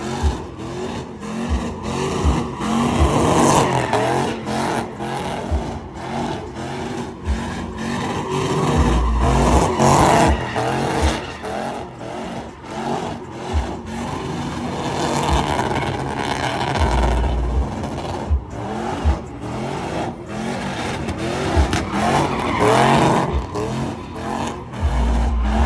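Truck engine revving hard during a burnout, tyres spinning and squealing, with frequent sharp cracks.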